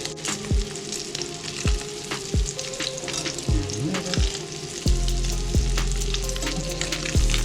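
Crumbed tailor fish sizzling as it fries, a steady crackle, under background music with a regular kick-drum beat. A deep bass note comes in about five seconds in.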